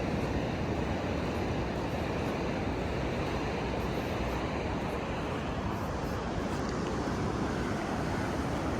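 Sea surf rolling in steadily on a sandy beach, with wind rumbling on the microphone.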